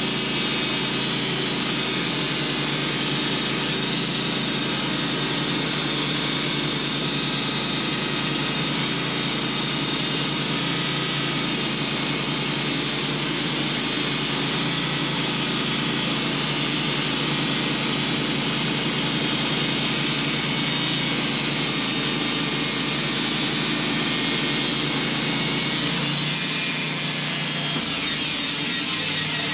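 Sawmill running steadily at full load, its blade cutting a thick slab from a dense hickory log.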